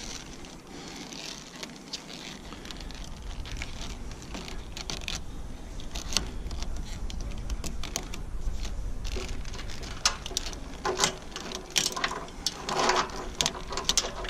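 Plastic spiral wrap being wound by hand around hydraulic hoses: irregular light clicks and rustles, getting busier and louder after about ten seconds, over a low rumble.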